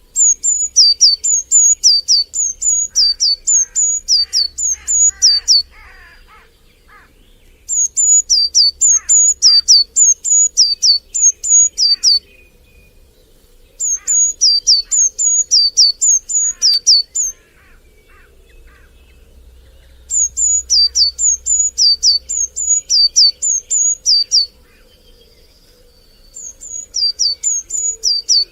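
A songbird singing a loud, rapid series of high notes, each dropping sharply in pitch, about three a second, in bouts of several seconds with short pauses between them, five bouts in all. Fainter, lower chirps from other birds sound underneath.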